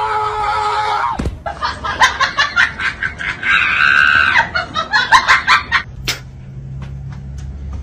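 A single knock about a second in, then people shouting, screaming and laughing in excitement for several seconds, with one long high-pitched scream in the middle. Near the end it turns quiet, with only a low hum and a few faint clicks.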